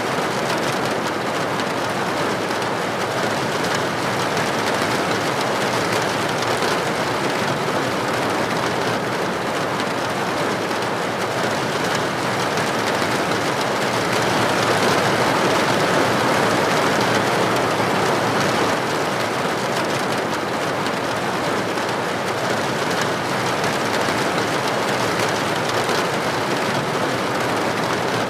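Steady rain falling in an even, dense hiss, swelling a little about halfway through.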